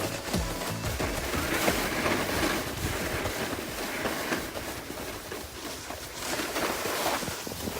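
Rough, continuous scraping and chattering of snow sliding underfoot on a downhill run, with wind buffeting the microphone.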